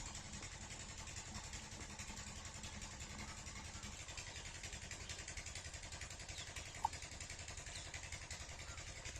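7HP diesel pump-set engine running steadily with an even chugging beat. A brief sharp click sounds about seven seconds in.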